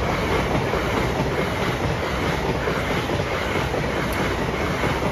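Passenger train passing at speed over a level crossing, a loud, steady rush of wheel and rail noise.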